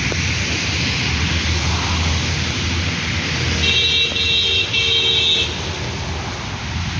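Steady monsoon rain with a low traffic rumble, and a vehicle horn sounding in three short toots about halfway through.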